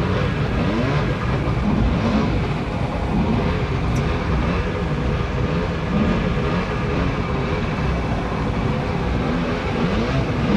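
A small boat's motor running, its pitch wavering up and down, over the steady rush of fast creek floodwater.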